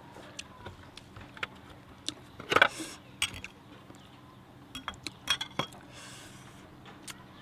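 Scattered light clicks and clinks of small hard objects, with a louder cluster of knocks about two and a half seconds in and a few more around five seconds.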